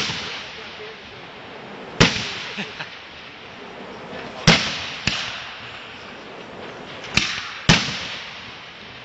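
Fireworks going off: about six sharp bangs at irregular intervals, some close together in pairs, each followed by an echoing tail.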